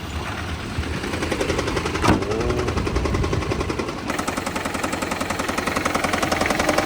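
A second-generation Toyota Prius's 1.5-litre four-cylinder petrol engine starting, with a sharp bang about two seconds in, then running with a fast, even knocking. The knock goes with the engine's rising oil and fuel consumption.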